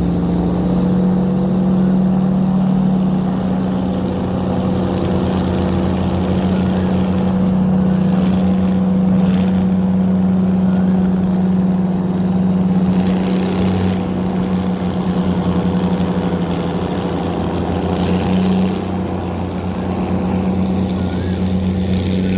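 Towing tugboat's engine running steadily under load, a continuous low engine hum with an even pitch.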